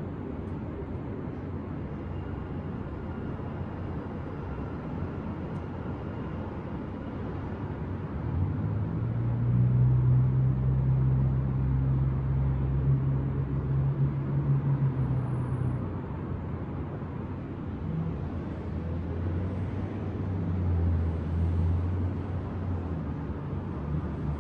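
Steady low rumble of city street traffic, with a heavy vehicle's engine drone swelling about a third of the way in, holding a steady pitch for several seconds, then fading; a second vehicle passes near the end.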